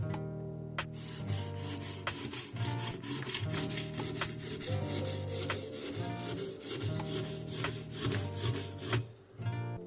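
Rapid, rhythmic scraping strokes of a Japanese kitchen knife blade being rubbed over an abrasive sharpening surface, several strokes a second, starting about a second in and stopping near the end. Guitar music plays underneath.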